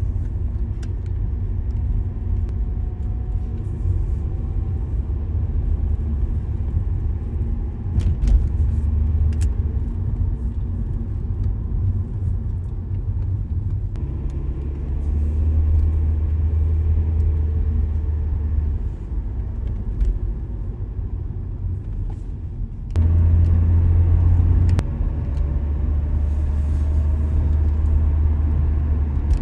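A car driving on a road: a steady low rumble of engine and tyres, with a few brief clicks about eight seconds in and a louder stretch a little over twenty seconds in.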